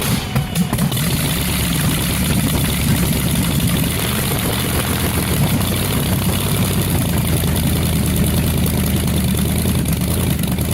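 A large engine running steadily and loudly, with a heavy low rumble and no change in speed.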